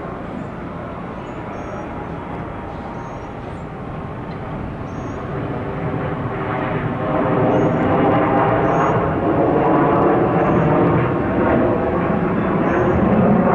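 Jet airliner engines: a steady rush with a hum of many engine tones, growing louder about halfway through. Faint short high chirps repeat every second or so.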